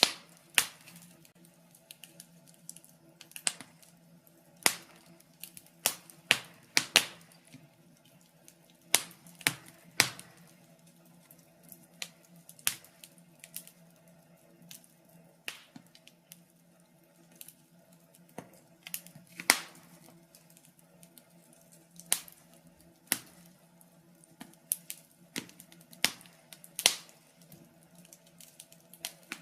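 Wood fire crackling: irregular sharp pops and snaps at uneven gaps, some much louder than others, over a faint steady hum.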